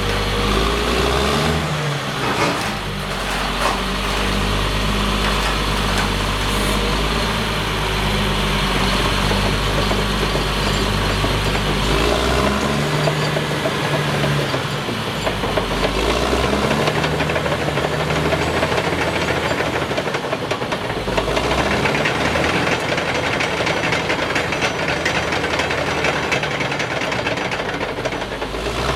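Caterpillar D6R bulldozer's diesel engine running, its speed shifting up and down several times, with a constant rattling clatter.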